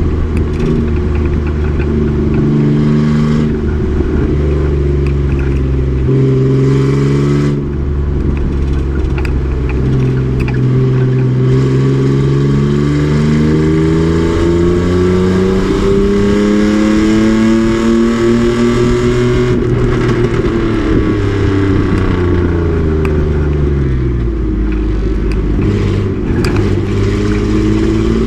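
Race truck's engine pulling hard on track, its pitch climbing and dropping back at several gear changes, then rising in one long pull. About two-thirds through it falls away as the truck slows, and it picks up again near the end.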